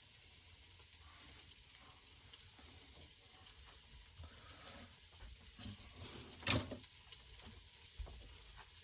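Food sizzling faintly and steadily in a frying pan, with one short sharp scrape or knock about six and a half seconds in.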